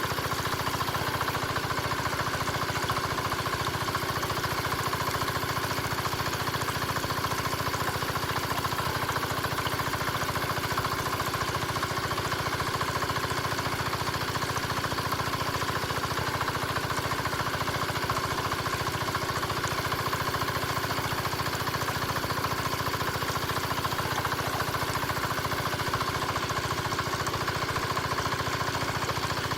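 Mini diesel engine of a home-built water pump running steadily at an even speed, with a rapid, unchanging run of firing pulses.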